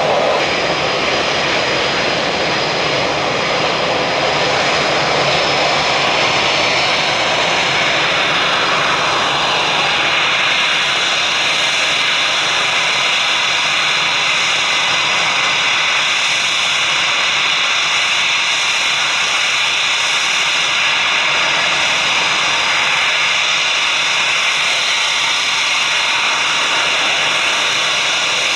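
Eurofighter Typhoon jet engines running steadily, a loud, continuous rush of noise with a high whine over it.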